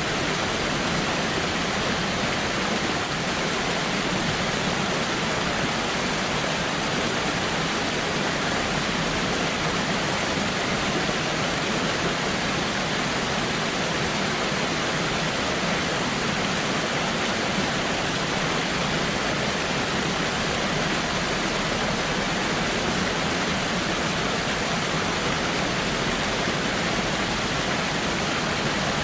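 Waterfall: steady, even rush of falling water with no change in level.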